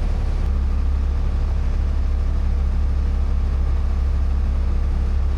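Light airplane's engine and propeller droning steadily, heard from inside the cabin.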